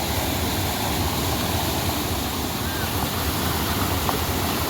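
Heavy rain falling steadily: an even, unbroken hiss of rushing water with no let-up.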